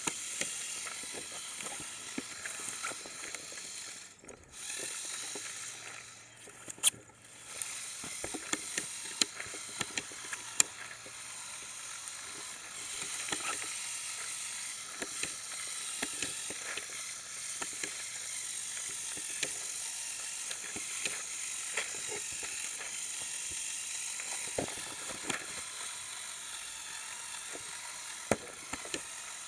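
Lego Technic trial truck crawling under its two Power Functions XL motors, geared down through its portal axles, giving a steady high-pitched motor and gear whir with many small clicks and crackles. The whir drops out briefly twice, about four and seven seconds in.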